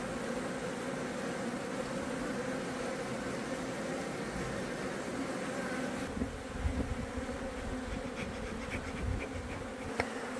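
A mass of honeybees buzzing in an opened hive: a steady, dense hum. It is the sound of a large colony that has come through the winter healthy. Some low rumbling joins in after the middle, and there is a sharp click near the end.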